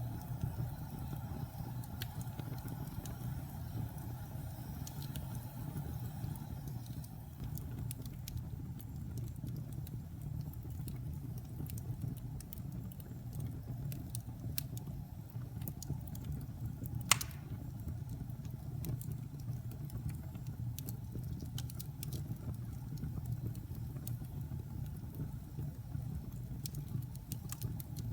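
Wood fire burning in a fireplace: a low, steady rush of flames with scattered light crackles, and one sharp pop about seventeen seconds in.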